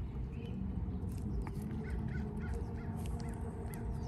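A bird calling: short calls, a few spaced out and then a quick run of about five about two seconds in, over a steady low rumble.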